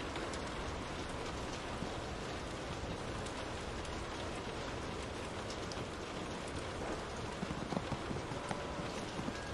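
Steady rain falling, with scattered sharp little ticks and a few louder ones near the end.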